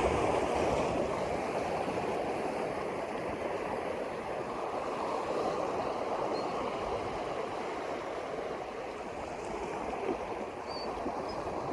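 Steady rushing of flowing water, even and unbroken, with one faint click about ten seconds in.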